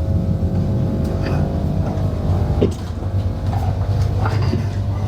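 Passenger train running, heard from inside the coach: a steady low rumble with a few sharp knocks and rattles.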